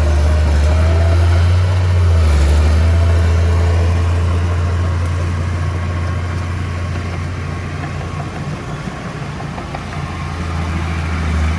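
Heavy diesel engine of earthmoving machinery running steadily, loudest in the first few seconds, easing off in the middle and building again near the end.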